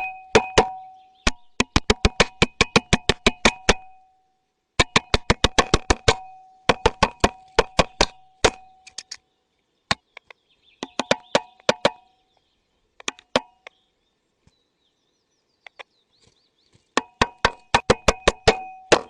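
Woodpecker pecking in runs of sharp knocks, about five a second, many of them ringing briefly, with pauses between runs and a quieter stretch of only scattered taps from about two-thirds of the way in until near the end.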